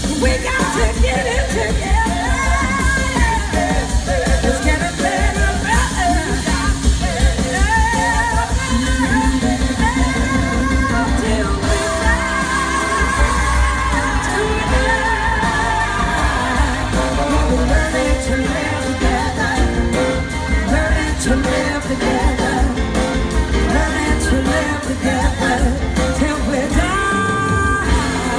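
Live rock-soul band playing an instrumental passage, a gliding, bending lead melody over drums and bass.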